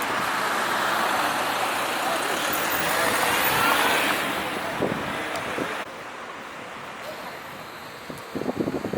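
Steady rushing noise of a boat under way on a lake, wind and water together. It drops suddenly to a quieter rush about six seconds in, with a few low knocks near the end.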